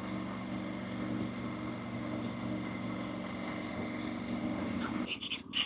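Motorcycle engine running steadily. About five seconds in it drops away, with a few sharp clicks.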